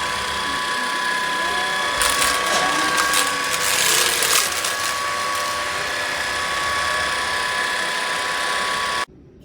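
Levoit LVAC-200 cordless stick vacuum running, its motor giving a steady high whine over a rush of airflow. A louder, rougher rush comes from about two to four and a half seconds in, and the sound stops abruptly about nine seconds in.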